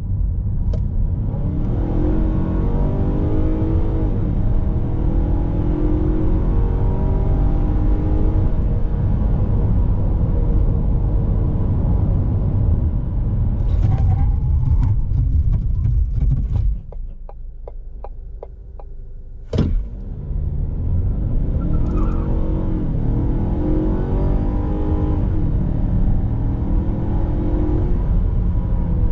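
2021 Ford Escape ST-Line's 2.0-litre turbo-petrol four-cylinder under hard acceleration, its note rising again and again as the eight-speed automatic shifts up. About two thirds of the way in it drops back for a few seconds, with a run of ticks and a sharp click, then it pulls hard through the gears once more.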